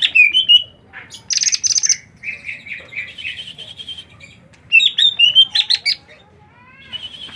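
A small songbird chirping and twittering in bursts of quick high notes and rapid trills, with short pauses between phrases.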